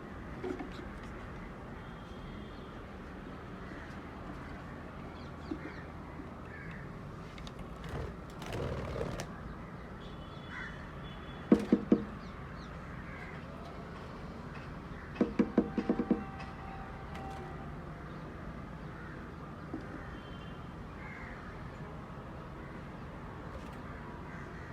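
A crow cawing: two loud caws about twelve seconds in, then a quick run of about five caws around sixteen seconds, with faint chirps in between.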